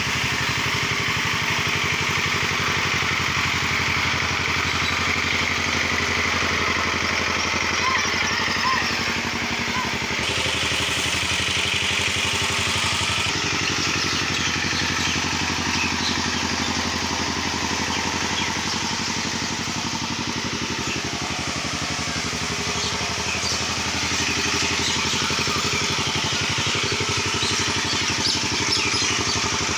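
Tractor engine running steadily at a constant speed for the whole stretch.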